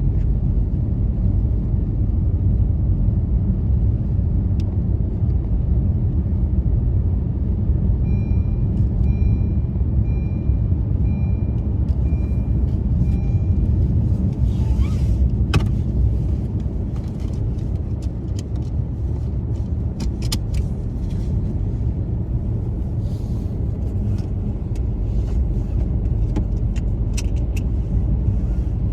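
Steady low rumble of a car driving on snowy roads. About a third of the way through there is a run of evenly spaced high beeps lasting several seconds, and short clicks are scattered through the second half.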